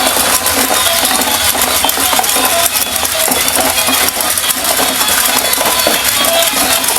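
Battery-powered walking toy horse running, its small motor and plastic gears and legs making a loud, steady rattling clatter.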